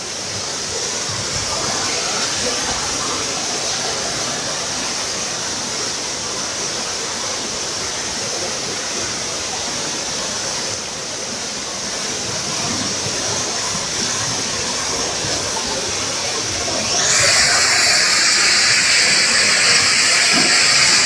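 Waterfall's rushing water, a steady hiss. About 17 seconds in it turns louder and brighter.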